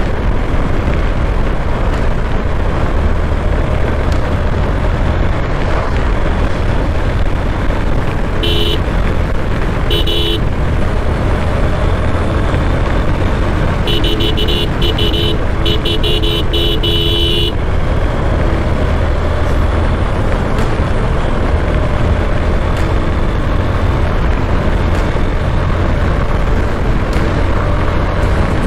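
Ride on a Honda X-Blade, a steady low rumble of the single-cylinder engine and wind on the move. A vehicle horn sounds twice briefly about nine and ten seconds in, then honks in a quick series of short beeps for about three and a half seconds around the middle.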